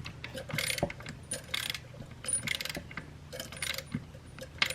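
A 3/8-inch ratchet clicking in short runs, about five strokes roughly a second apart, as it tightens the oil drain plug of a 2005 Yamaha R6.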